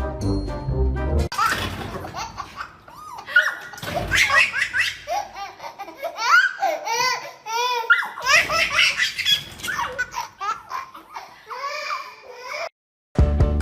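High-pitched laughter in repeated rising and falling bursts, after a moment of background music; it cuts off suddenly near the end.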